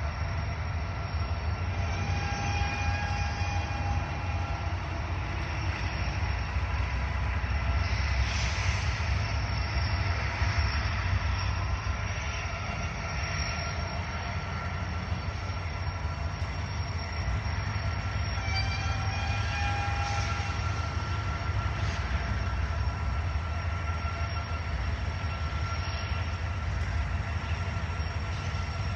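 Freight train backing slowly into a rail yard: a steady low rumble of locomotives and rolling cars, with short high-pitched tones twice.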